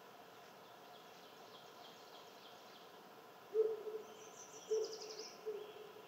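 A bird calling three low notes about a second apart, the first the loudest, with small songbirds singing faintly and higher in the background.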